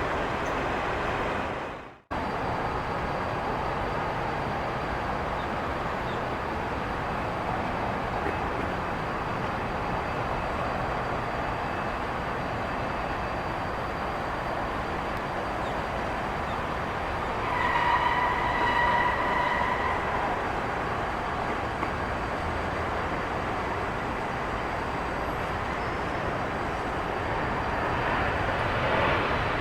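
Steady rumbling roar of heavy vehicle noise, broken by a sudden cut about two seconds in. About two-thirds of the way through, a high steady tone sounds over it for a couple of seconds.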